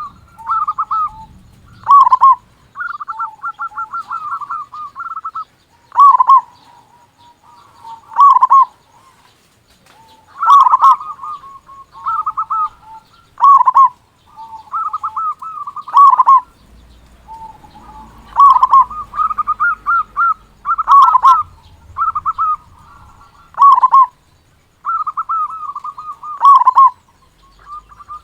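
Zebra dove (perkutut) cooing repeatedly: loud coos near 1 kHz, one every one to two seconds, alternating with rapid stuttering trill phrases.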